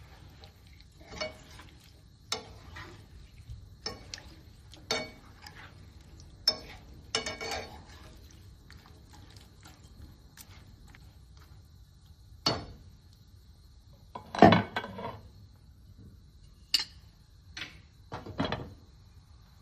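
Cookware and utensils clinking and clattering at irregular intervals, with one louder clatter about three-quarters of the way through.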